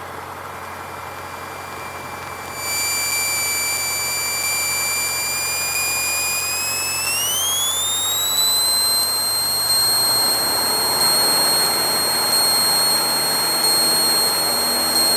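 Cessna 152's four-cylinder Lycoming engine brought up to full power for the takeoff roll, heard in the cabin. The noise steps up a few seconds in, and a thin high whine rises in pitch with engine speed a few seconds later, then holds steady.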